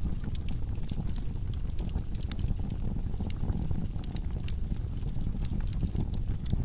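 Wood logs burning in a fireplace: a steady low rush of flames with frequent sharp crackles and pops.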